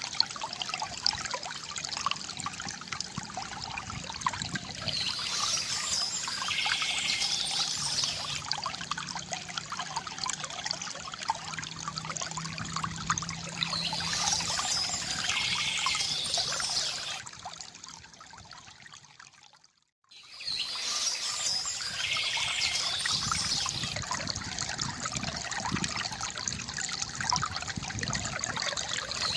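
Water trickling and splashing steadily from a bamboo fountain, with birds chirping at intervals. About two-thirds of the way through, the sound fades out to near silence for a moment, then comes straight back.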